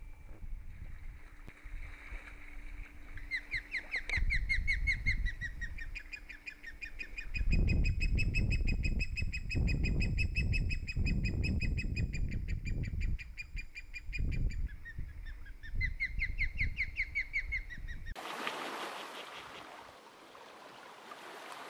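A bird calling in long, rapid trills, several times over, with wind and water rumbling low on the microphone. Near the end the sound changes abruptly to a steady rushing hiss.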